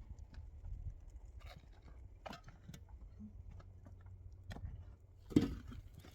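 Scattered irregular knocks and clicks over a steady low rumble, with the loudest thud about five seconds in.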